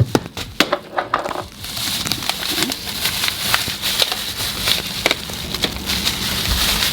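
Crackling and rustling of food and its wrapping being handled: many small sharp clicks over a steady rustle.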